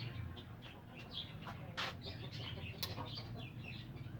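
Caged birds chirping busily in many short calls, with a couple of sharp knocks about two and three seconds in, over a low steady hum.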